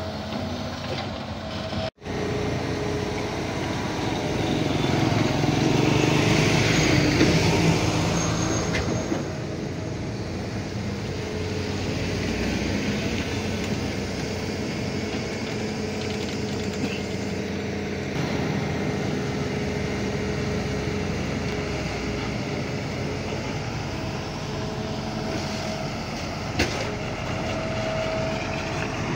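Diesel engines of heavy earthmoving machinery running steadily, growing louder between about four and nine seconds in, with a brief cut in the sound about two seconds in.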